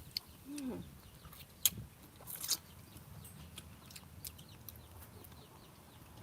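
Chickens clucking, with a short call about half a second in, and a few sharp clicks and a brief crackle about two and a half seconds in.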